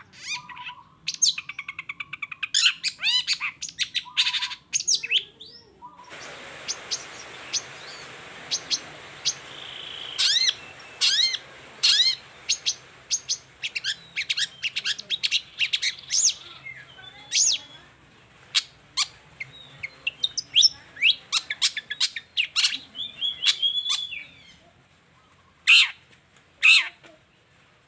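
Long-tailed shrike (cendet) singing: a busy run of short, sharp chirps and squawking calls in quick succession, with a steady hiss behind the middle stretch.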